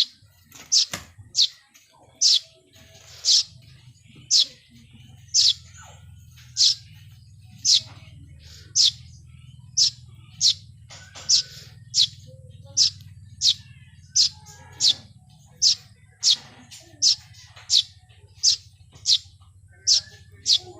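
A bird chirping over and over: short, high chirps that drop in pitch, about one a second, coming a little faster in the second half.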